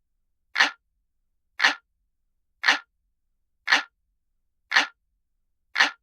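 Looped clock-ticking sound effect: a single sharp tick about once a second, six ticks evenly spaced, with silence between.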